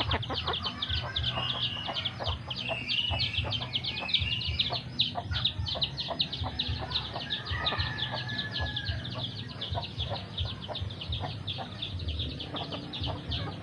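A chicken clucking and calling, over a rapid, even high chirping of about five notes a second throughout.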